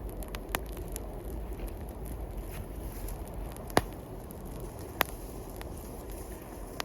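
Wood bonfire crackling, with four sharp pops, the loudest nearly four seconds in, over a steady low rushing noise.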